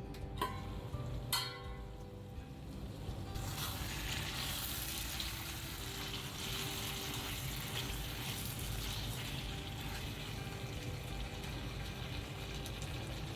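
Food frying in hot oil in a pan, a steady sizzle that starts up about three seconds in, after two light knocks near the start.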